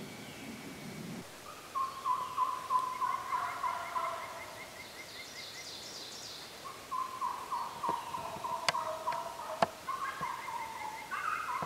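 Birds calling: two long series of rapid, short, falling notes, the second starting about halfway through, with fainter overlapping call series. A few sharp clicks come in the second half.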